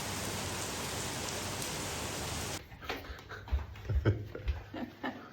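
A steady rushing hiss like rain or running water that cuts off abruptly; after it, scattered light knocks and a few low thumps.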